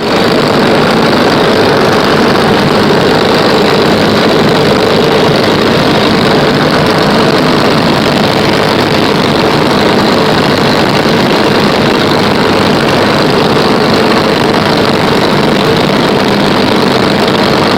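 Light aircraft's piston engine and propeller running at a steady, unchanging drone.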